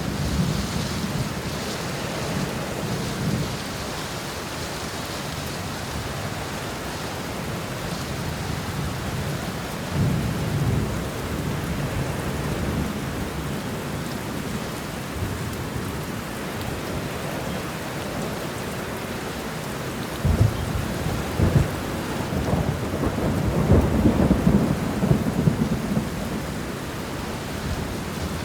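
Steady heavy rain with rolling thunder: low rumbles swell near the start and about ten seconds in, then a louder, crackling thunder roll from about two-thirds of the way through that fades near the end.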